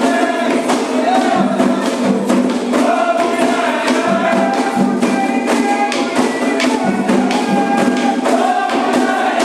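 Voices singing a Candomblé chant together over steady, rapid percussion strikes.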